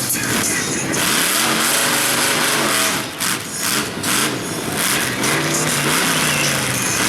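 Mud truck on tractor tires with its engine revving, the pitch climbing and falling again and again over a heavy hiss, with brief dips in level about three and four seconds in.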